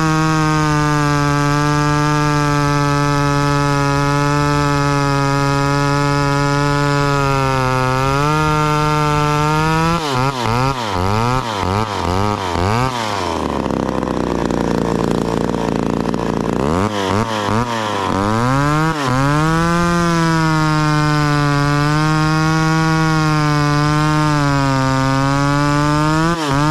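Two-stroke chainsaw running at high revs with a steady pitch. Midway the pitch wavers rapidly and sinks into a rougher, lower stretch for a few seconds, as when the saw bogs under load in a cut, then climbs back to the steady high speed.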